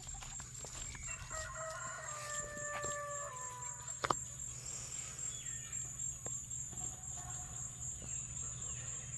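A rooster crowing once, a long drawn-out call of about three seconds, followed by a sharp click and fainter fowl calls.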